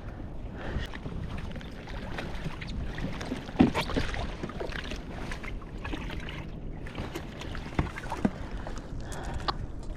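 Water sloshing against a fishing kayak's hull, with wind on the microphone and scattered small knocks and clicks of gear against the boat, one sharper knock about three and a half seconds in.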